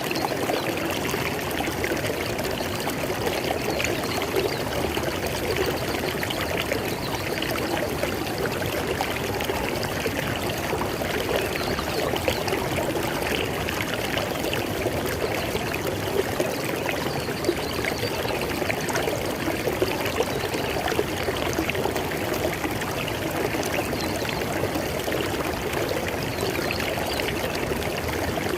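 River water flowing and splashing over stones, a steady rushing and trickling.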